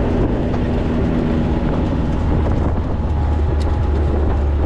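4x4 being driven on a dirt road: its engine runs as a steady low drone under a continuous rough rumble of tyres on the track.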